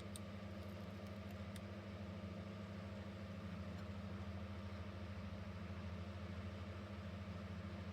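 Loudspeaker overdriven with a steady low hum, being pushed until its voice coil burns out. A few faint clicks come in the first second and a half.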